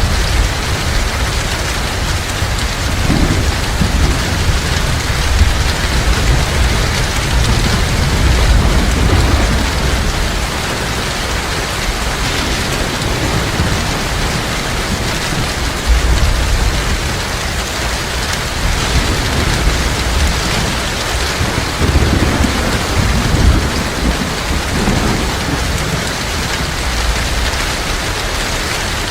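Heavy rain falling steadily, with low thunder rumbling underneath and swelling several times.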